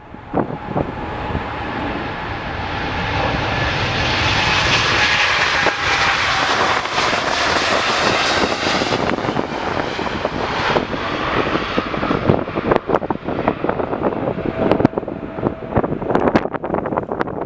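Jet airliner's engines passing: the noise builds over the first few seconds, peaks for several seconds with faint tones that sink slightly in pitch, then fades. Wind gusts buffet the microphone throughout.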